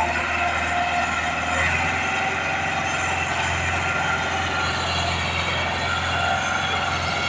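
Large tractor engine running steadily at a constant speed, a continuous low drone with a faint steady whine above it.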